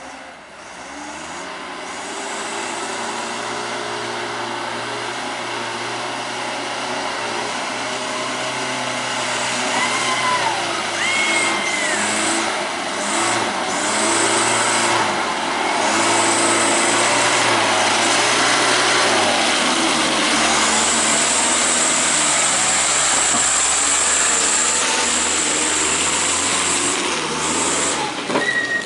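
Truck engine revving hard, getting louder over the first few seconds and again about halfway through, with a high whine in the second half.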